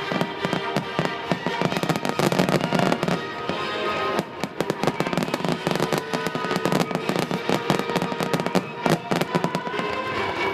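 Aerial fireworks bursting and crackling in rapid, dense volleys, with music playing at the same time.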